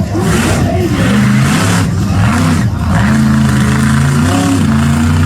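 Monster truck engine revving hard, its pitch climbing and falling again and again as the throttle is blipped and opened.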